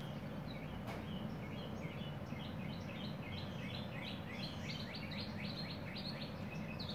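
A bird singing in the background: a quick run of short repeated downslurred notes, about three a second, starting about two seconds in, over a steady low hum.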